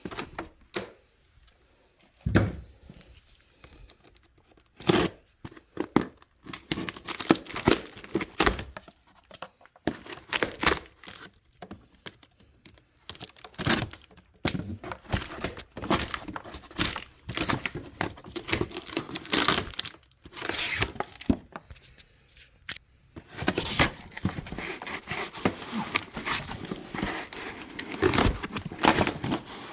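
Packaging being torn open and crumpled during an unboxing: rustling, crinkling packing material, with a few sharper knocks from the box or its contents.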